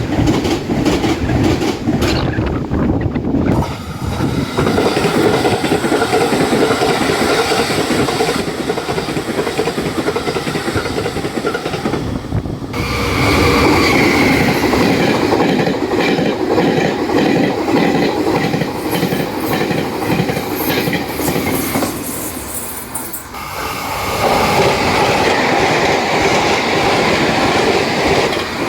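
Taiwan Railways trains passing at speed, their wheels clattering in quick rhythm over fishplate rail joints. Several passes follow one another, with abrupt changes about 3½, 13 and 23 seconds in.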